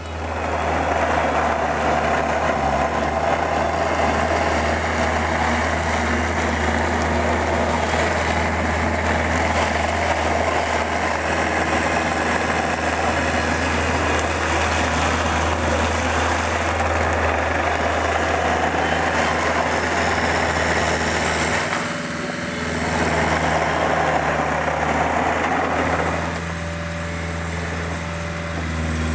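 Bobcat 430G mini excavator's diesel engine running steadily. It eases off briefly about two-thirds of the way through and runs a little quieter near the end.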